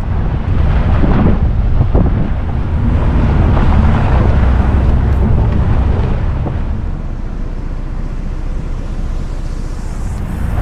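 Ford Bronco driving on a dirt trail: a steady low rumble with heavy wind buffeting the microphone, and a couple of sharp knocks about one and two seconds in.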